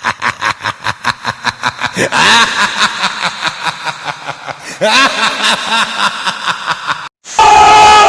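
Rapid snickering laughter, about five or six pulses a second, which cuts off abruptly about seven seconds in and gives way to a louder, steadier sound.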